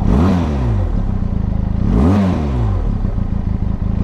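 Stationary motorcycle engine idling, with the throttle blipped twice: quick revs up and back down near the start and again about two seconds in.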